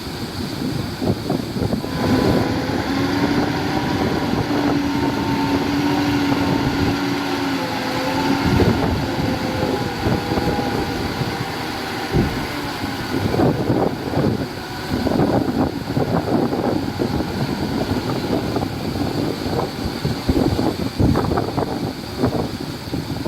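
Diesel engines of heavy earthmoving machinery running, with a held engine tone from about two seconds in until about ten seconds in. Wind buffets the microphone throughout.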